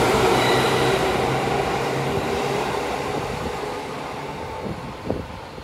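JR 205 series electric commuter train pulling away from the station, its running noise and steady motor hum fading as it moves off. A single short knock sounds near the end.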